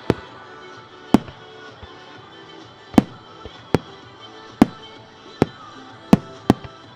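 Fireworks going off: eight sharp bangs at uneven intervals, two of them close together near the end, over steady background music.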